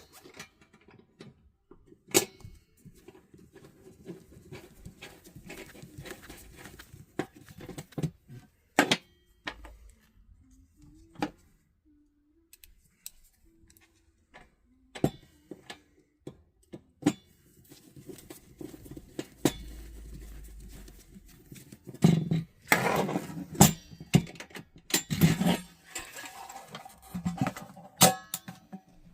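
Irregular clicks and knocks of metal door hardware being handled and fitted, as a push-button handle is installed on an electrical panel door, with a busier run of knocking and rattling near the end.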